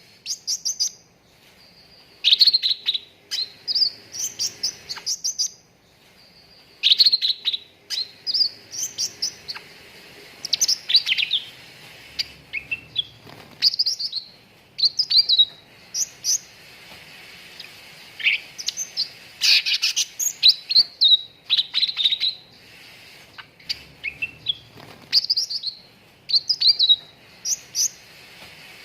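Cucak ranting songbird singing in short bursts of rapid, high chirping notes, with brief pauses between phrases.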